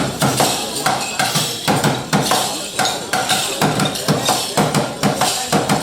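Live rhythmic percussion: a steady groove of sharp strikes, about three a second, with lighter hits in between.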